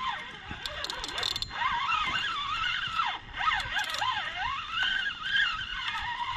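Fishing reel being cranked to bring in a hooked fish, its gear whine rising and falling in pitch with the cranking speed, with a few clicks about a second in.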